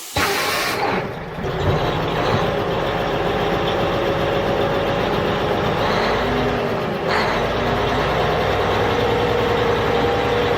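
A motor engine running steadily. It cuts in abruptly at the start.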